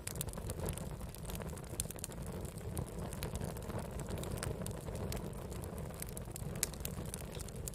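Wood campfire burning: a steady low rumble of flames under frequent sharp crackles and pops from the burning wood.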